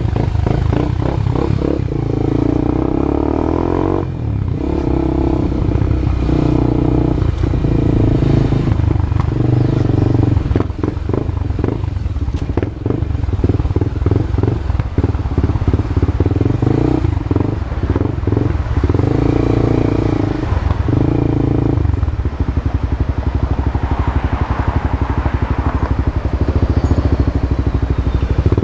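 Honda CB Twister's single-cylinder engine running through a new exhaust, blipped and revved up and down repeatedly between idle and higher revs.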